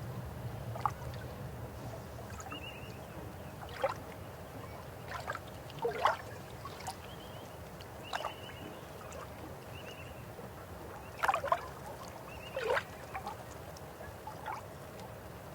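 River water flowing with a steady low rush, with birds calling over it: a dozen or so short calls, several of them quick downward sweeps and a few small high chirps, spread through.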